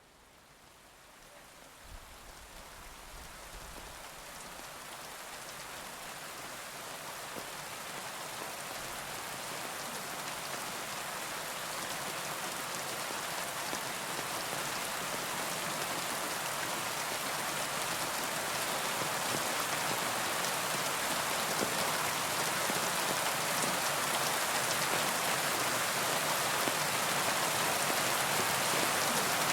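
Rain falling on a tin roof: a steady hiss of drops. It fades in from near silence and swells steadily over the first ten seconds or so.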